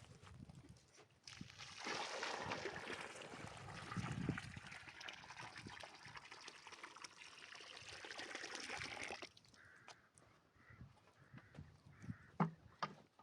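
A steady rushing noise, like something being poured, starts about a second in and stops about nine seconds in. A few light knocks follow near the end.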